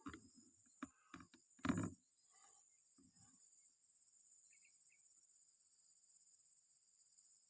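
Insects trilling steadily at a high pitch with a fast pulse. A few short knocks and one louder rustling thump sound in the first two seconds.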